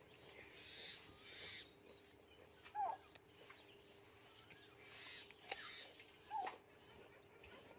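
Parrot giving soft, short calls, with two louder curved calls about three seconds and six and a half seconds in, and a sharp click between them.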